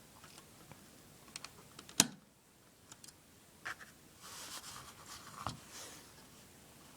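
Scattered small clicks, with one sharp, much louder click about two seconds in and a stretch of rustling rattle a little past the middle.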